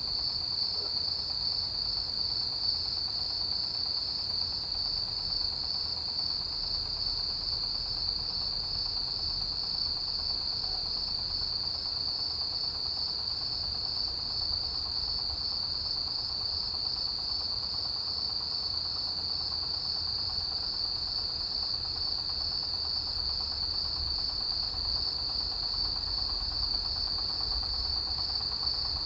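Autumn grass insects, crickets, chirring in a chorus: one steady, fast-pulsing high trill without a break, with a second, even higher-pitched insect chirping in rhythmic runs that stop and start again every few seconds.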